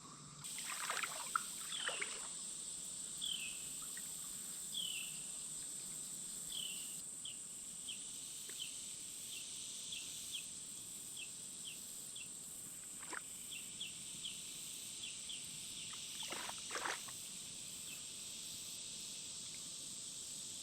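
Outdoor ambience at a river: a steady high insect drone, with a string of short, falling high chirps and a few brief clicks.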